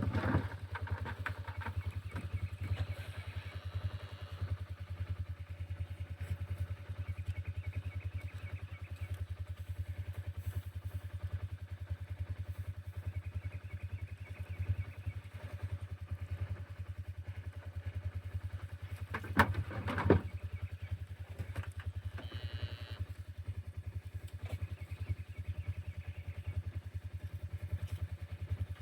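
An engine running steadily at low revs, a low even pulsing hum, with a short burst of clattering knocks about two-thirds of the way through.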